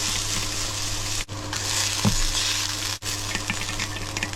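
Food sizzling in hot oil in a pan as it is stir-fried, with a thump about two seconds in and a few light clicks of the spatula. A steady low hum runs underneath.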